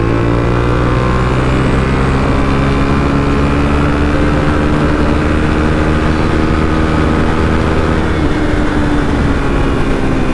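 Suzuki DR-Z400SM single-cylinder four-stroke engine pulling in fifth gear at highway speed, heard from the bike with wind rushing past. The engine note rises steadily through the first half, then levels off.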